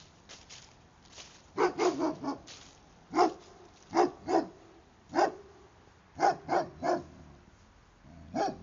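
A dog barking repeatedly, in short groups of one to three barks, starting about one and a half seconds in. Faint footsteps can be heard before the barking starts.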